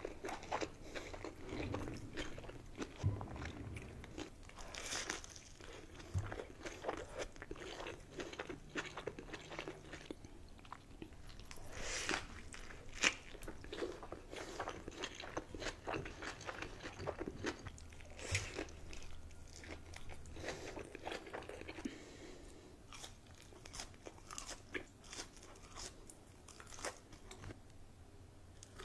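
Close-up eating sounds of a burger meal: biting and chewing, with irregular crunches throughout.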